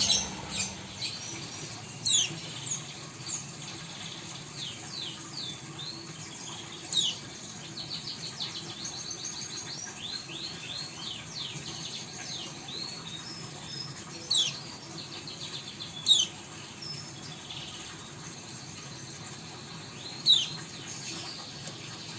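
Caged pet birds chirping and twittering: a busy stream of quick, high, downward-sliding notes, with a few louder sharp chirps standing out about five times.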